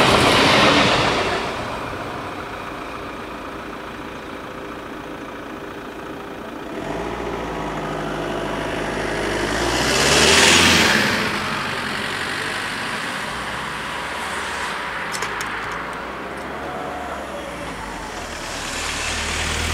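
The tail of a DB class 426 electric multiple unit rolling past and fading away in the first two seconds. Then road traffic: a vehicle passes close about ten seconds in, and another approaches near the end.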